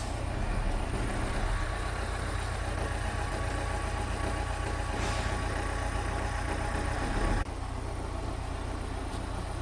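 Mitsubishi bulldozer's diesel engine running steadily, likely at idle. The sound drops abruptly in loudness about seven and a half seconds in and carries on more quietly.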